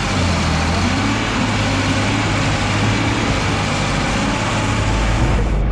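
Tractor's diesel engine running loud and steady, with a low, even engine hum under a dense wash of noise; the sound changes abruptly near the end.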